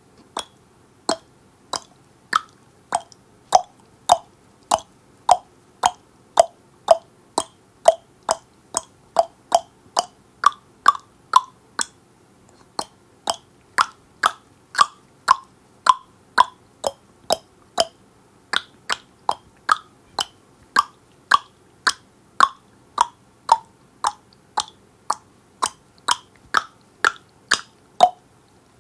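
Tongue clicks from a person's mouth, repeated about twice a second, with a short pause about twelve seconds in. Each click has a hollow pitch that shifts up and down from click to click.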